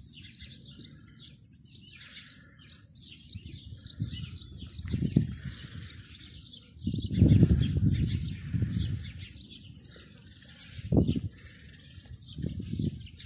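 Small birds chirping and twittering over and over in short high calls. Low rumbling noise comes and goes beneath them, loudest about seven to nine seconds in, with a shorter swell near eleven seconds.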